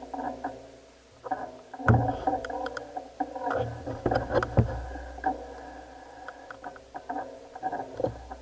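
A mountain bike on a rough downhill trail: heavy knocks and a deep rumble as it hits bumps, about 2 seconds in, around 4 seconds and near the end, with an intermittent ringing, rattling tone between them.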